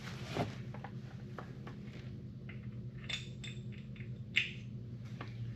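Scattered light clicks and clinks of small metal wheel-hub parts being handled and fitted, with a few sharper ticks past the middle, over a steady low hum.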